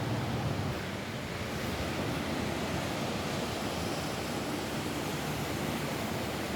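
Steady rain falling on a roof: a dense, even hiss with a heavy low rumble.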